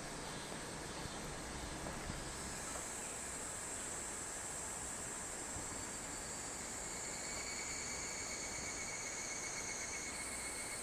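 Summer insects trilling steadily in several high-pitched tones over an even background hiss; the highest trill comes in a few seconds in and a lower one joins later.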